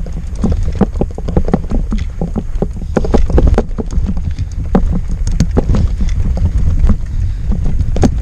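Loaded touring bicycle rattling and knocking irregularly over a rough dirt track, with wind rumbling on the microphone.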